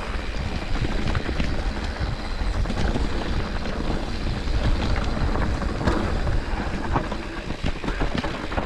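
Wind buffeting the microphone of a mountain bike riding downhill on a rocky trail, with the tyres rolling and many quick clicks and knocks as the bike rattles over rocks.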